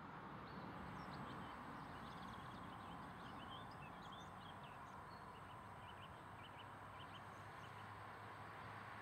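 Small birds chirping, short high notes scattered irregularly, over a faint steady rush of outdoor background noise.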